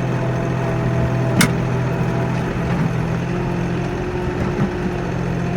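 Kioti NX4510 compact tractor's four-cylinder diesel engine running steadily, with one sharp click about one and a half seconds in.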